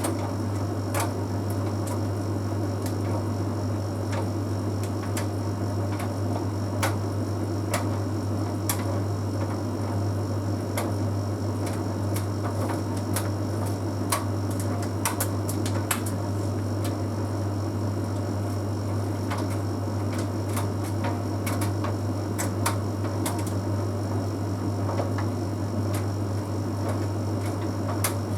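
Bosch Series 6 heat pump tumble dryer running mid-cycle: a steady low hum with the drum turning, and irregular light ticks and clicks from the load tumbling.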